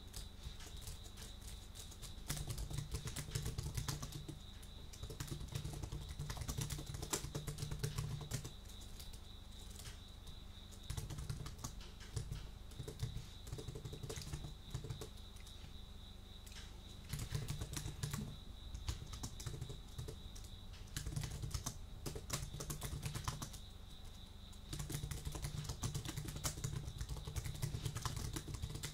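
Computer keyboard typing in runs of quick key clicks a few seconds long, broken by short pauses, picked up close on a binaural ear microphone.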